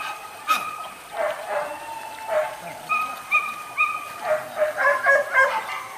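Hunting dogs barking and yelping in quick succession, more than one dog calling at different pitches, with a rapid run of barks near the end.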